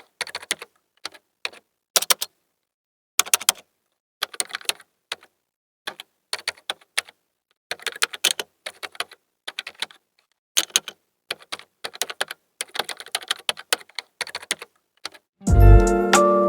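Sharp clicks and taps in irregular little clusters, like keys or small plastic buttons being pressed, with dead silence between them. Music comes in about a second before the end.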